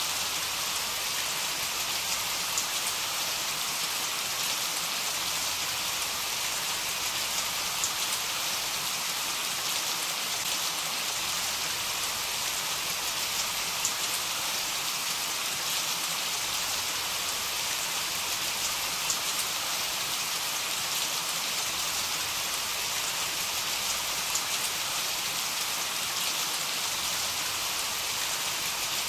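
Heavy rain falling steadily, an even hiss with scattered drop ticks and no thunder.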